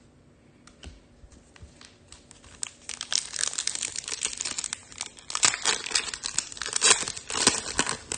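Foil wrapper of a Topps Chrome trading-card pack crinkling and being torn open. A few faint clicks at first, then a dense crackle from about three seconds in.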